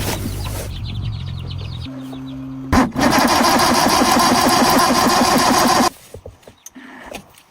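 A truck engine being started. A steady low hum gives way, after a click, to about three seconds of loud, rhythmic engine noise, which stops abruptly.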